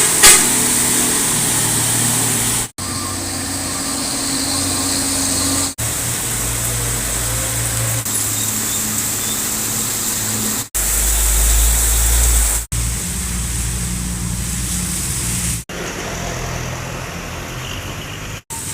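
Heavy trucks' engines labouring under load, heard in a series of short cuts that each end abruptly, the low engine note changing from one cut to the next. These are worn, rattly engines running hard on an uphill climb.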